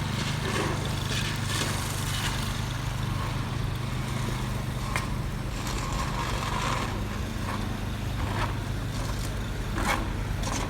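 An engine running steadily at an even, low pitch, with scattered light clicks and scrapes over it.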